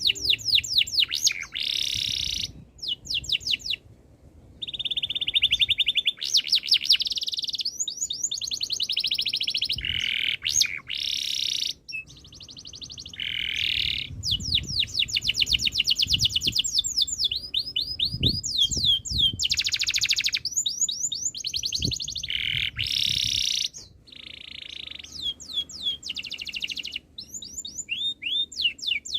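Domestic canary singing a long, nearly continuous song of fast rolling trills and quick runs of sweeping notes, broken by a few short pauses.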